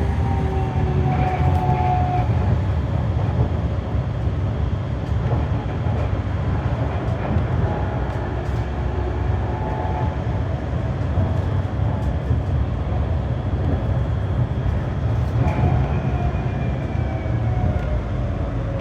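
Berlin GT-type low-floor tram running, heard on board: a steady rumble of wheels on rail with the electric traction drive whining. The whine falls in pitch in the first couple of seconds as the tram slows, and falls again over the last few seconds.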